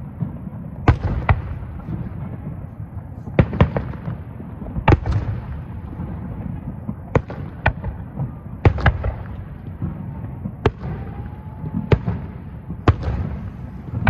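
Aerial firework shells bursting: more than a dozen sharp bangs at uneven intervals, several in quick pairs, over a continuous low rumble.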